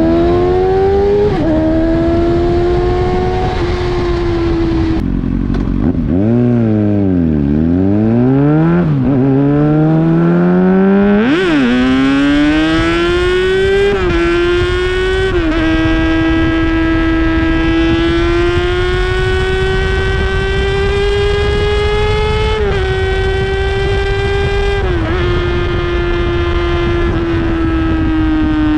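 Inline-four sport bike engine running at high revs, falling to low revs about a quarter of the way in, then revving up hard again with sharp breaks in pitch at the gear changes. It then holds high revs for the rest, with a few brief steps in pitch as it shifts.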